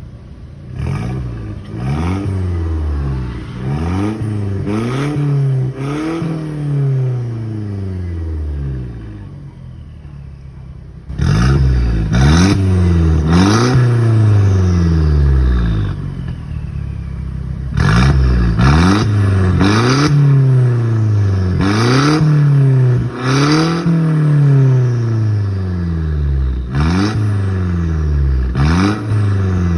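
Mercedes-Benz C250 engine revved repeatedly through an aftermarket valvetronic exhaust: quick rev blips that each rise sharply and fall back more slowly. It gets markedly louder and brighter from about eleven seconds in.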